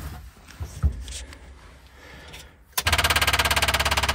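After a few faint clicks, a small-block Chevy V8 breaks suddenly into a loud, rapid, even pulsing about three seconds in as it is cranked and started. This is its first start after years in storage.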